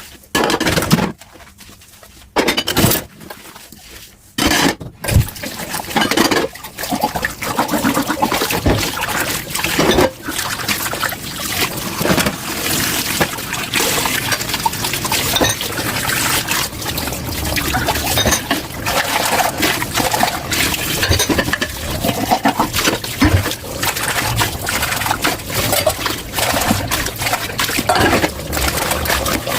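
Tap water running into a kitchen sink while dishes are washed, with many small knocks and clinks of dishes throughout. For the first five seconds the water comes in short splashes with quiet gaps, then runs steadily.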